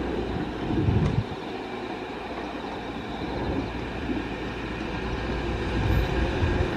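EF210 electric locomotive hauling a freight train approaching, its rumble on the rails growing steadily louder over the last few seconds. A brief low buffet is heard about a second in.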